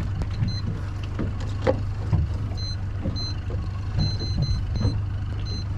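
Short, high electronic beeps, about ten of them, most in the second half, from a boat's fish finder or chartplotter as its buttons are pressed to mark a spot. Under them the boat's engine runs with a steady low hum.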